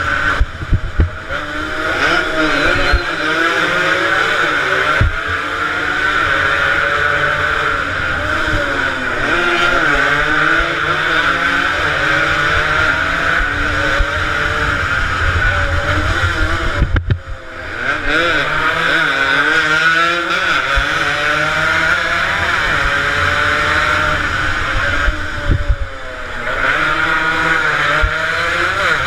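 Several two-stroke motorcycles racing, their engines revving up and down over one another. The sound drops off briefly about 17 seconds in and again about 26 seconds in.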